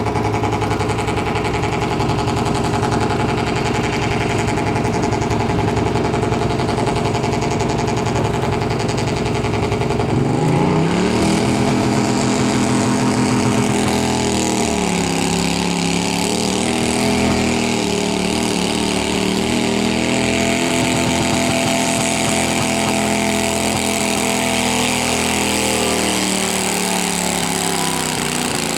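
Pulling garden tractor's engine running at a lower speed, then revved hard about ten seconds in and held at high revs, its pitch dipping and recovering under the load of the pull before the throttle comes off near the end.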